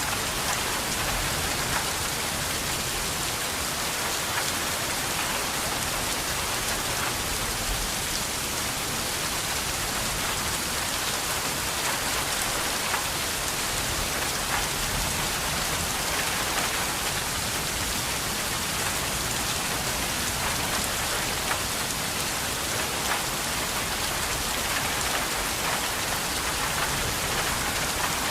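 Steady rain falling, an even hiss with countless individual drops ticking through it, unchanging throughout.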